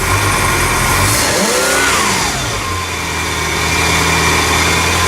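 MerCruiser 302 Ford V8 marine engine running. It revs up and back down once about a second and a half in, then settles to a steady run.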